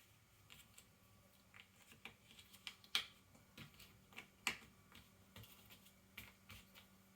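Ravensburger cardboard jigsaw puzzle pieces handled on a table: faint, scattered light clicks and taps, with two sharper clicks about three and four and a half seconds in.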